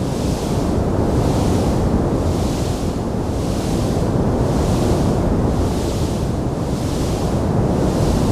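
Wood fire burning in a fireplace: a steady, dense rumble of flames with a hiss that swells and fades about once a second, and no distinct crackles standing out.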